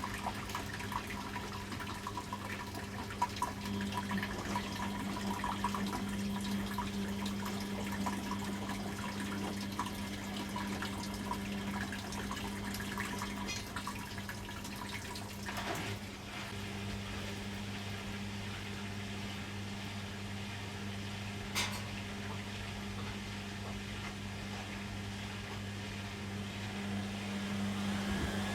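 Beko front-loading washing machine taking in water, a steady rush of water with a constant low electrical hum. There is one sharp click about two-thirds of the way through.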